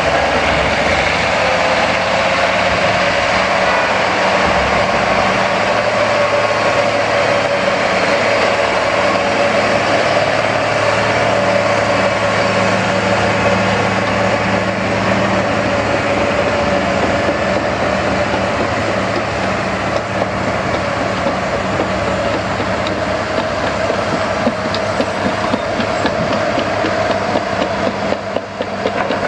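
Heavy diesel engine of a truck or construction machine running steadily, with a steady whine over its low hum; it turns rougher and more uneven near the end.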